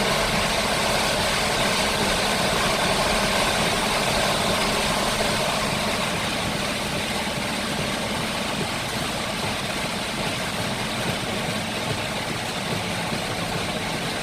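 Heavy rain falling, a steady dense hiss, with a faint steady low hum underneath.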